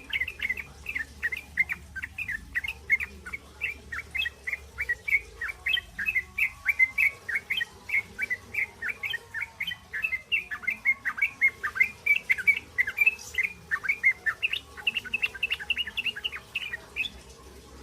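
Young sooty-headed bulbul (trucukan) giving its 'ngriwik' chatter: a fast, unbroken run of short high chirps, about four a second, which stops near the end.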